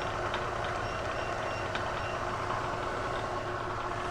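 Bridgeport milling machine running steadily with a hum while its spindle turns for edge-finding on the work's left edge, with a few light ticks.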